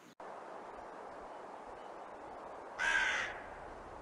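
A rook gives one harsh caw about three seconds in, over a steady background hiss.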